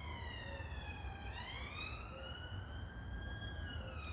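Emergency vehicle siren wailing faintly: its pitch sinks slowly to a low point about a second in, climbs again, and starts to fall near the end, over a steady low rumble.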